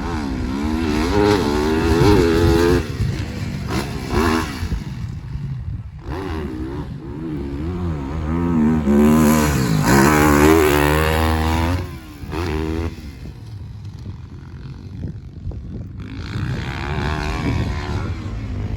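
Motocross bike engine revving hard around a track, its pitch rising and falling repeatedly as the throttle is opened and shut through jumps and corners. It eases off briefly about six seconds in, and again for a few seconds past the middle, then picks up again.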